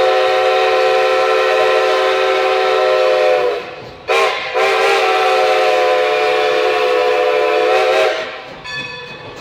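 Steam whistle of Strasburg Rail Road No. 90, a 2-10-0 steam locomotive, sounding a loud multi-tone chord: a long blast, a short toot about four seconds in, then another long blast that stops about eight seconds in, a pattern that fits the end of a grade-crossing signal.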